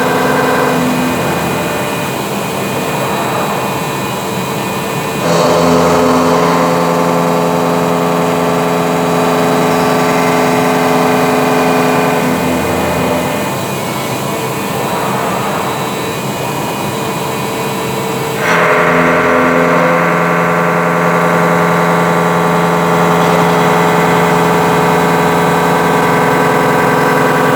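Forest-Liné Majormill milling machine running, a steady mechanical whine of many tones from its drive. It steps louder to a new set of tones about five seconds in and again about eighteen seconds in, with quieter, noisier stretches between.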